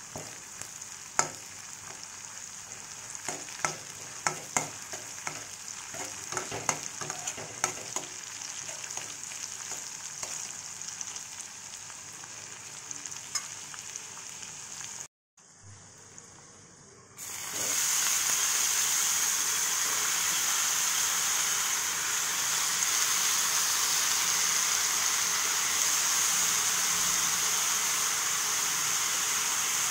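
Onions and dry fish sizzling in oil in a metal kadai, with a metal spatula scraping and clicking against the pan. About halfway through the sound cuts out briefly, then gives way to a louder, steady sizzle of sliced mushrooms frying in the pan.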